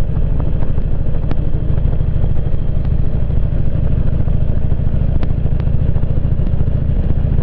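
Motorcycle engine running steadily with an even low drone.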